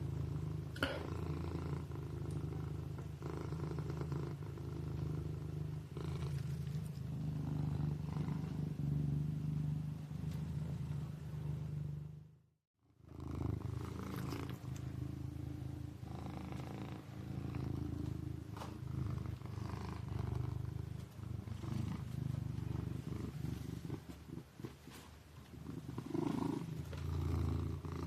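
A sleeping kitten purring steadily in a low, continuous rumble. About halfway through, the purring fades out for about half a second and then comes back.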